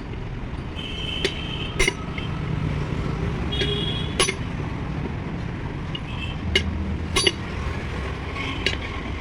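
A steady low engine rumble with sharp metallic clinks at irregular moments, about seven of them, and a few short high squeaks.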